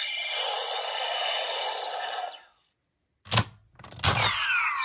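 Electronic sound effects from a Kamen Rider W toy's speaker: a hissing effect with steady tones lasting about two and a half seconds, then after a pause a sharp click and a second hit followed by falling electronic tones.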